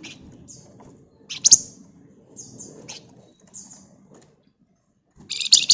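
Flamboyan (wergan Jawa) songbird singing in short, high chirps and rapid trills. The loudest phrases come about a second and a half in and again near the end.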